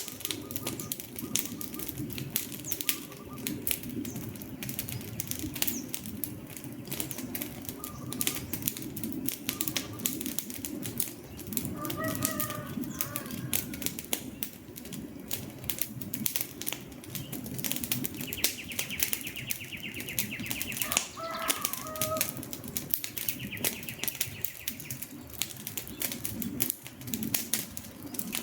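Wood fire crackling and popping with many quick irregular snaps. Short bird calls sound faintly twice, and a high buzzing trill comes and goes in the second half.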